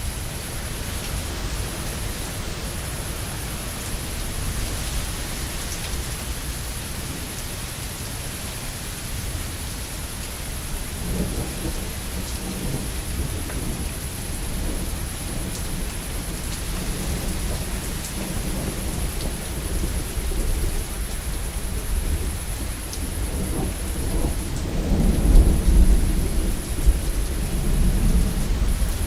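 Steady heavy rain with rolling thunder: low rumbles build from about a third of the way in, with the loudest rumble near the end.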